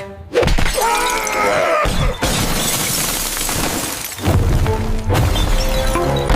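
A shattering crash, like breaking glass, lasting about two seconds, over cartoon background music.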